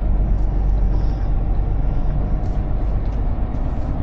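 Semi-truck running down the road, heard from inside the cab: a steady, loud, low engine and road rumble. A few faint ticks come near the end.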